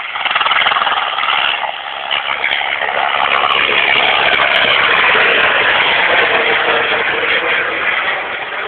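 Helicopter rotor and turbine noise, loud and close. It swells to its loudest in the middle and eases off near the end, as the helicopter passes or manoeuvres nearby.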